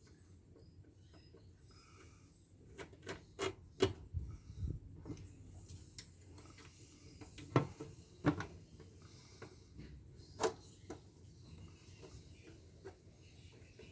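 Hand tools working on a solar inverter's metal casing to get its top cover off: scattered clicks and sharp knocks at an uneven pace, the loudest about four, seven and a half, eight and ten and a half seconds in.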